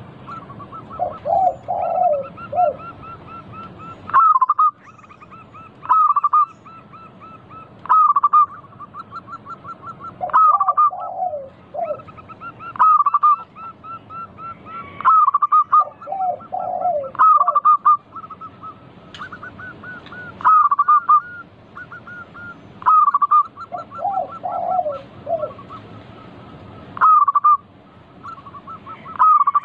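Zebra doves (perkutut) singing continuously: a rapid trill of short hooked notes, broken by a louder note every two seconds or so, with a lower warbled phrase now and then. It is a lure song meant to set a caged perkutut calling.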